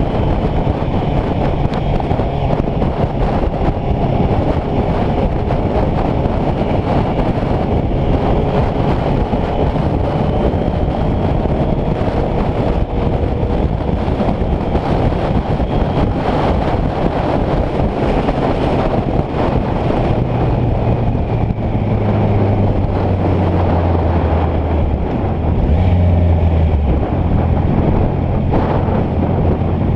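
Wind rushing and buffeting the microphone on a moving motorcycle, with the Honda CBR650F's inline-four engine running underneath. The engine note comes through much more clearly from about two-thirds of the way in, stepping up and down in pitch a few times.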